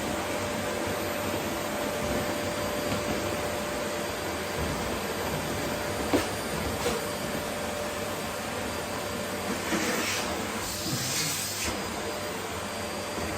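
Vacuum cleaner running steadily while vacuuming rose petals, an even rushing noise with a faint steady tone under it. A sharp click comes about six seconds in, and the hiss briefly grows louder and higher near the end.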